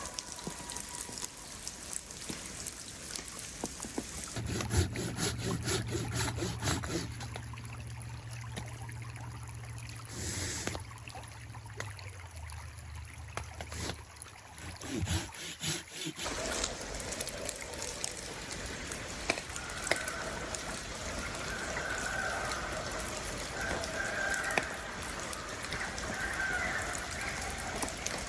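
Water of a small stream trickling and running steadily.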